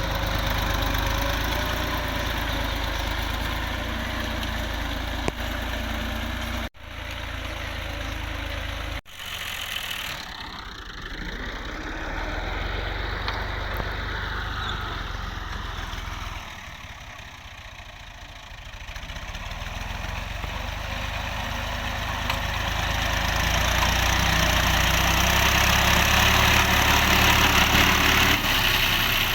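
Fiat 480 tractor's diesel engine running under work. Its pitch rises and falls back about ten seconds in, it drops quieter for a few seconds, and then it grows louder again toward the end.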